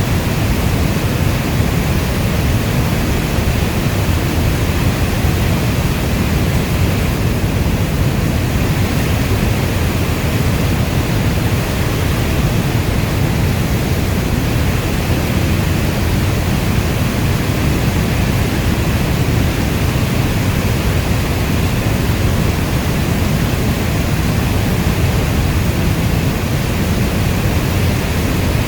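Heavy rainstorm: a steady, even wash of rain noise weighted toward a deep low rumble, with no single drops, gusts or thunderclaps standing out.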